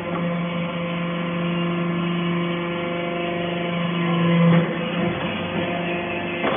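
Aluminium chips baler running with a steady mechanical hum of several held tones, shifting and briefly growing louder about four and a half seconds in.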